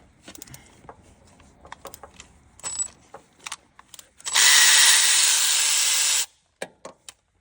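Handheld power tool running in one steady burst of about two seconds, starting a little over four seconds in and stopping abruptly. Before it come light clicks and taps of tools being handled.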